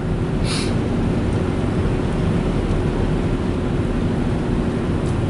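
Steady road and engine noise inside a car at highway speed: a low rumble of tyres on dry pavement, with a brief hiss about half a second in.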